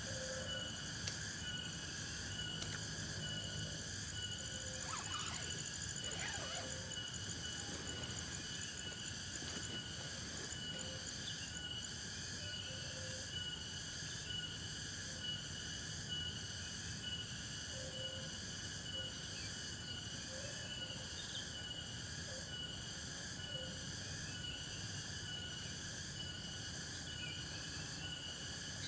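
Forest insect chorus: a steady, high-pitched, evenly pulsing buzz and trill from many insects, with occasional short calls from other animals.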